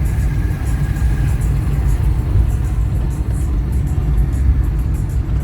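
Steady low rumble of a moving road vehicle, its engine and tyres heard from on board, with music playing along with it.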